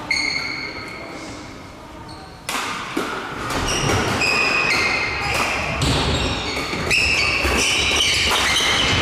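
Badminton rally in a reverberant hall: sharp racket-on-shuttlecock strikes and short high squeaks of court shoes on the floor. After a knock and a squeak at the start and a brief lull, the strikes and squeaks come thick and fast from about two and a half seconds in.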